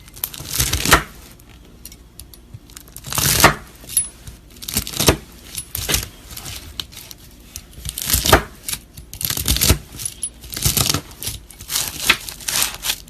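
A knife cutting through crunchy slime, with a crackling crunch at each cut and the crackles coming in bursts every second or two.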